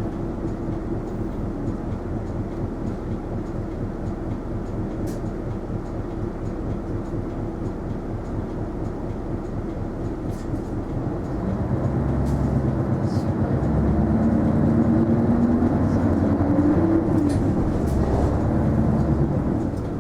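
Isuzu Erga non-step city bus's diesel engine heard from inside the cabin, running steadily at low revs, then about eleven seconds in growing louder with a rising drone as the bus accelerates, easing off near the end.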